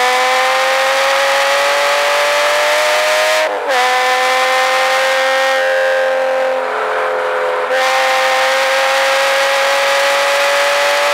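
A 2007 Porsche Cayman S's flat-six engine heard from inside the cabin, pulling up through the revs with a brief break about three and a half seconds in, typical of an upshift. It eases off for about two seconds near the middle, its note softening, then climbs steadily again under acceleration.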